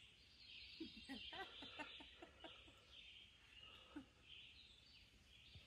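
Near silence: faint woodland ambience with faint bird calls, a run of short repeated notes about a second in.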